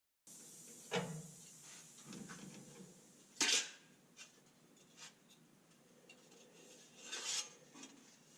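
Light metallic knocks and small clinks of metal parts and hand tools being handled on a workbench, with two short rasping noises, one about three and a half seconds in and a longer one near the end.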